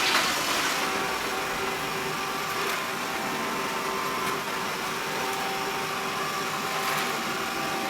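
Xiaomi Mi robot vacuum running steadily while cleaning a rug, a constant motor whir with a faint steady hum.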